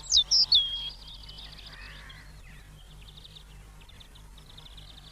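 European robin singing: a few loud, high sweeping notes in the first second, then a quieter run of short, thin high notes.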